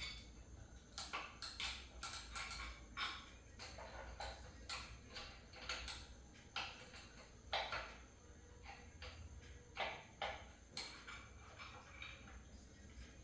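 Irregular light clicks and clinks of hand tools and metal engine parts being handled during assembly of the timing components, one to three a second.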